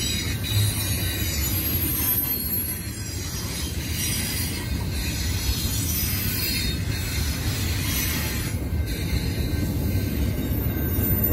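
Train cars rolling past with a steady low rumble and thin, high-pitched wheel squeal.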